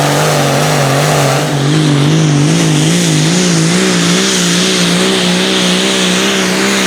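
Pulling tractor's engine running hard while held at the start line. Its pitch swings up and down about twice a second from about a second and a half in, creeping slightly higher.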